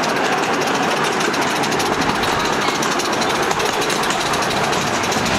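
Small steam-hauled park train running, heard from an open passenger car: a steady, rapid rattling clatter of the cars and wheels on the track.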